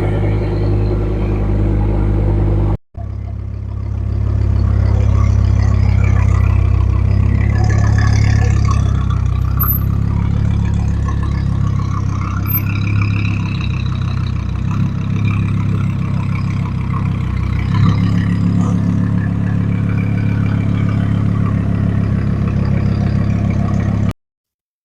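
2014 Audi R8 V10 Plus's 5.2-litre V10 engine running at a steady idle. The sound drops out for a moment about three seconds in, comes back and grows louder over the next two seconds, then holds steady until it cuts off abruptly near the end.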